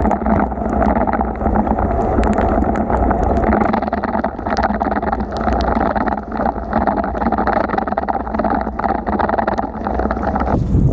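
Steady rush of wind and rain noise from riding a bicycle through a heavy downpour on wet roads, with many scattered sharp ticks.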